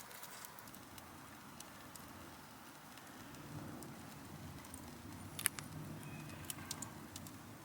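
Campfire crackling: scattered sharp pops over a low rumble that grows from about three seconds in, with one louder pop about five and a half seconds in.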